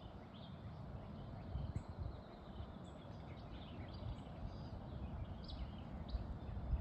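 Small birds chirping, short high calls scattered throughout, over a steady low background rumble.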